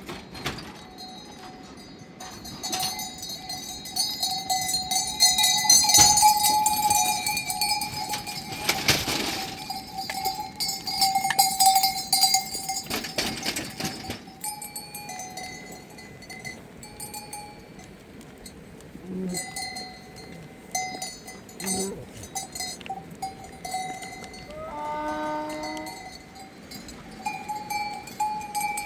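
Bells on a flock of sheep and goats clanking unevenly as the animals move, with a broad rush of noise loudest in the first half and a bleat near the end.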